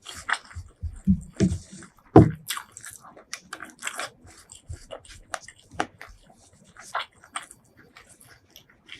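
Close-miked eating: irregular biting and chewing with crisp crunches and wet mouth clicks, the loudest bites in the first couple of seconds.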